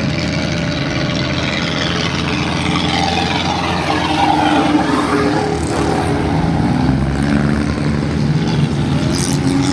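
Tractor diesel engine running hard at high revs, its pitch shifting up and down.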